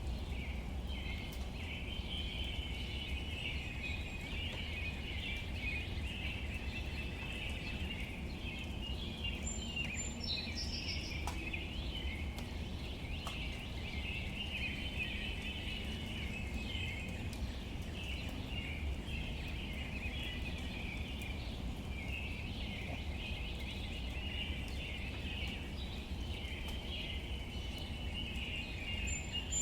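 Outdoor ambience with a steady chatter of many small bird calls over a low rumble. A few higher, clearer chirps stand out, once about ten seconds in and again at the end.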